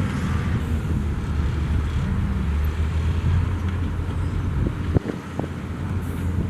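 Heavy diesel engine of an earthmoving machine running steadily under load, with a few sharp knocks about five seconds in.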